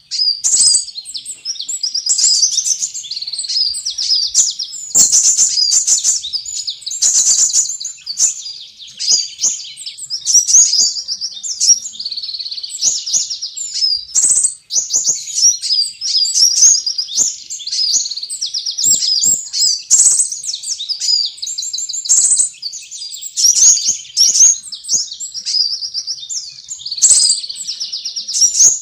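Sunbirds calling in a dense, unbroken stream of rapid high-pitched chirps and trills, broken by sharp clicking notes: a bird-trapping lure recording.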